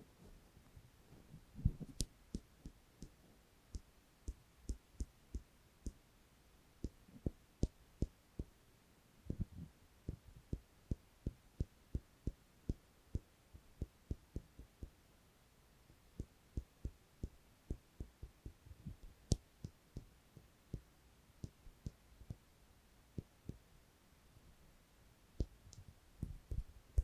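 ASMR ear cleaning close to the microphone: soft, irregular low taps and rubs, about one or two a second, with a few sharper clicks.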